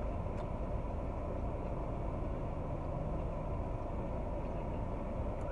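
Steady hum inside a stationary car's cabin with the engine idling.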